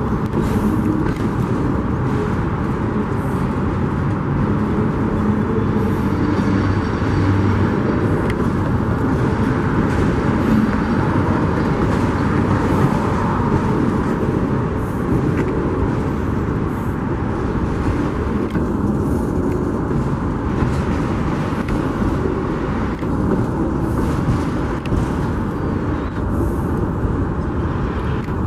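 Union Pacific freight train rolling past, a steady rumble with a low hum and scattered faint clicks.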